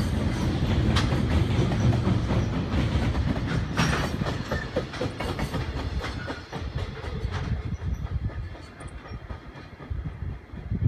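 Freight train wagons running over a railway bridge: a heavy, steady rumble with clicks of wheels over rail joints, fading from about six seconds in as the train passes.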